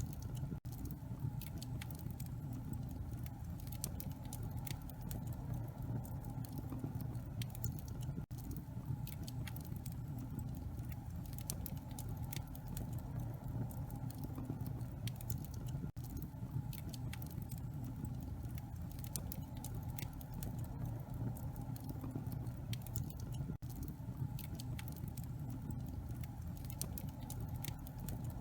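Wood fire burning in a fireplace: a steady low rumble with frequent small irregular crackles and pops.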